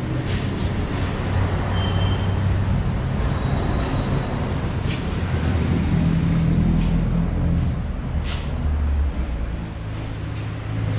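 Steady road traffic and engine noise, with a low running engine hum.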